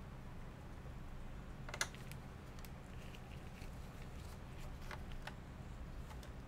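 Scattered light clicks and taps of laptop parts being handled during disassembly, the sharpest one about two seconds in, over a low steady hum.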